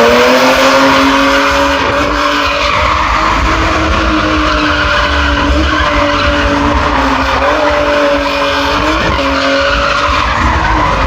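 Drift car's engine held at high revs, its pitch wavering up and down, over the steady noise of tyres skidding.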